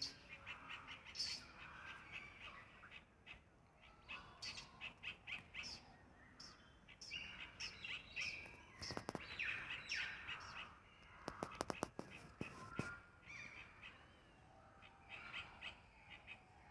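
Several birds chirping and calling, with some crow-like caws. A short run of sharp clicks and knocks a little past the middle is the loudest sound.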